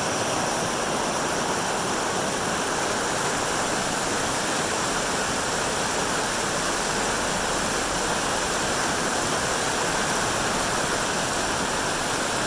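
Mountain creek rushing over rocks: a steady, loud, unbroken roar of running water.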